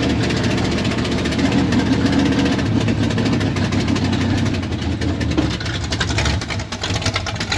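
A big old boom truck's engine running steadily at low speed as it crawls along, a deep even rumble, with scattered clicks and knocks joining in over the second half.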